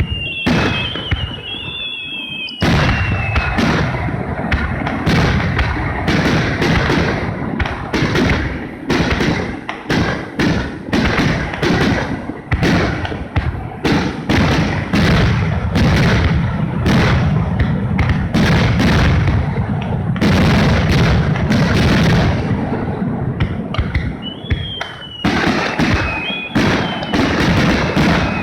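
Aerial fireworks bursting in a rapid, dense barrage of booms and cracks, one after another, with a brief lull about two seconds in.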